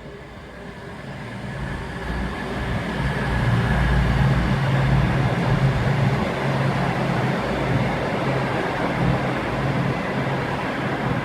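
A train approaching and passing, its noise building over the first few seconds to a steady low hum with rushing noise, then easing off near the end.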